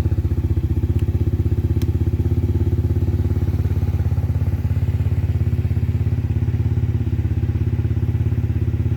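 Honda Zoomer-X scooter's single-cylinder engine idling through a Moriwaki aftermarket muffler, an even, steady exhaust pulse.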